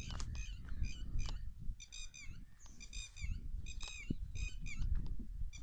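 Birds calling continuously in a rapid, repeated series of high chirping notes, coming in quick clusters about twice a second.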